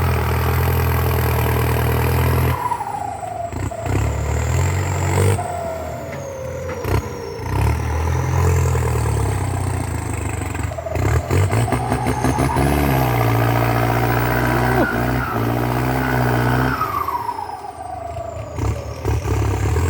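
Kubota M8808 tractor's turbocharged diesel engine working hard under a full plough load, its engine note dipping and picking up several times. A high turbo whistle slides down and back up in pitch as the revs change.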